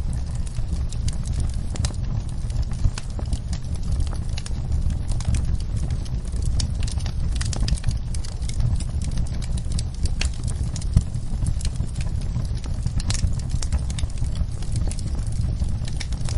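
Wood fire crackling in a fireplace: a steady low rumble under frequent irregular pops and snaps, with a couple of sharper pops standing out.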